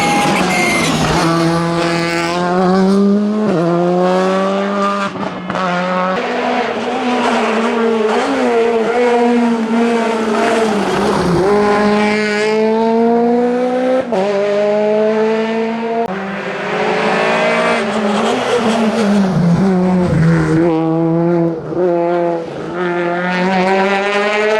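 R5 rally cars (Skoda Fabia R5, then Peugeot 208 R5) at full throttle on a tarmac stage, engines climbing in pitch through each gear with quick upshifts and lifts, several passes in a row, with some tyre squeal.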